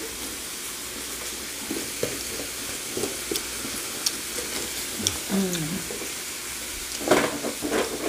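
Pork belly sizzling on a samgyupsal grill: a steady frying hiss with small crackles now and then.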